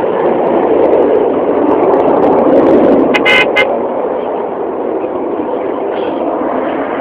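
Jet aircraft making a low pass: loud, rushing jet engine noise that builds to a peak about three seconds in and then eases off a little.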